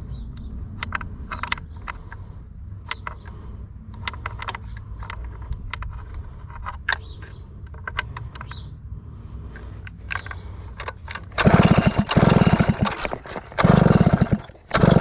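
Small handling clicks, then from about eleven seconds in, three hard pulls on the recoil starter of a Stihl 051 chainsaw, the engine cranked over quickly with each pull while the plug is checked for spark.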